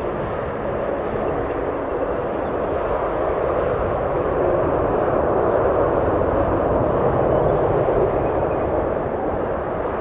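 Aircraft engine noise, a steady rushing that swells about midway through and eases near the end.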